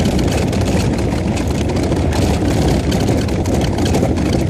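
VAZ 2106 Zhiguli heard from inside the cabin while driving through deep snow: a steady low engine and road rumble, with a crackling hiss of snow and tyres on top.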